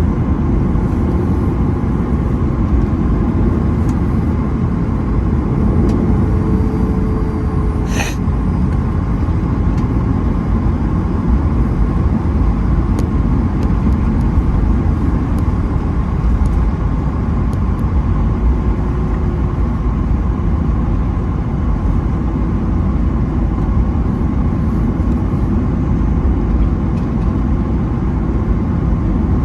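Cabin noise of a Boeing 737-900ER taxiing after landing: its CFM56-7B jet engines at idle with a steady low rumble. A single sharp click sounds about eight seconds in.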